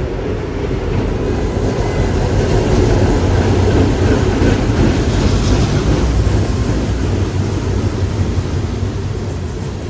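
Freight train rolling past, a steady rumble of wheels on rail that grows to its loudest about halfway through and then eases off.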